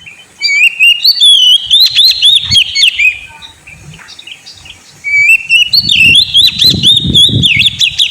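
Oriental magpie-robin (kacer) singing: fast, varied whistled phrases full of quick rising and falling notes, in two loud bursts with a quieter pause between them, the second starting about five seconds in.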